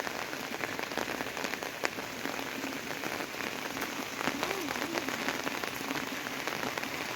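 Steady rain falling, with many individual drops ticking sharply against the surface.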